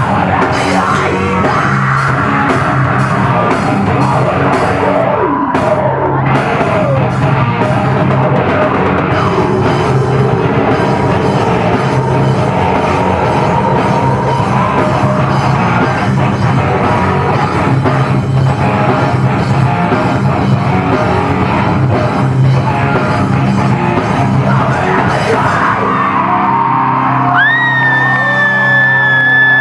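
Heavy metal band playing live, with distorted guitars, drums and yelled vocals. Near the end the playing thins out and a single held high tone slides slowly down.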